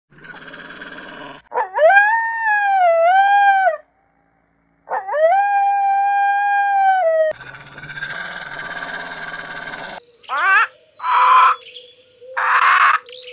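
A white wolf howling twice, each howl a long held call: the first dips and rises in pitch, the second holds steady and falls away at the end. About ten seconds in, cockatoos give three short harsh screeches.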